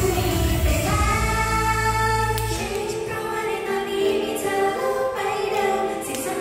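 Idol-pop song with female voices singing together over the backing track. The bass and beat drop out about two and a half seconds in, leaving the voices over lighter backing.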